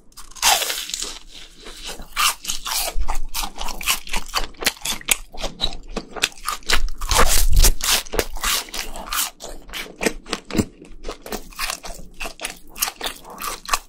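Close-miked crunching and chewing of a fried cheese ball, a dense run of crisp crunches.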